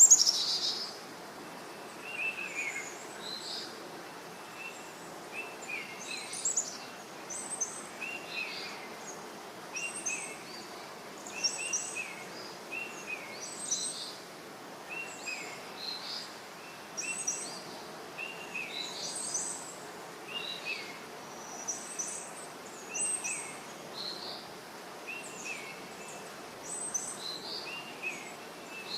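Forest birds chirping, short calls repeating every second or so over a steady background hiss, with one loud call at the very start.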